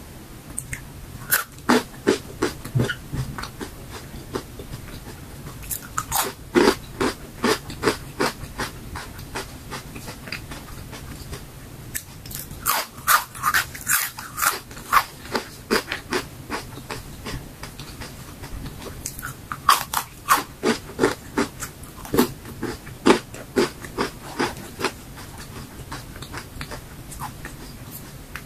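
Close-up crunching and chewing of crisp dried fruit, vegetable and mushroom chips. The crunches come in quick runs of bites, with short pauses between mouthfuls.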